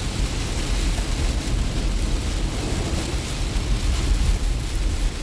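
Car driving through heavy rain on a wet road, heard from inside the cabin: a steady hiss of rain and tyre spray over a low road rumble.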